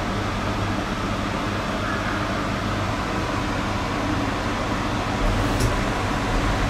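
Steady hum and air noise inside a Yurikamome driverless train car standing at a station. About five seconds in, a low rumble swells and a short click sounds.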